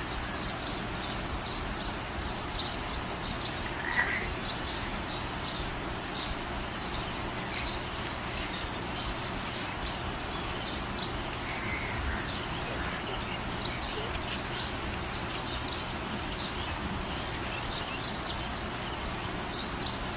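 Small birds chirping: many short high chirps throughout, with a couple of lower calls about four seconds in and again near the middle, over a steady background hiss.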